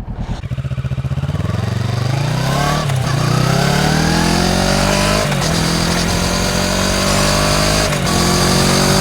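Kawasaki Ninja 650 parallel-twin engine through an Akrapovič full exhaust, heard close at the exhaust, pulling away and accelerating. The pitch climbs for about three seconds, then drops briefly at upshifts about three, five and eight seconds in.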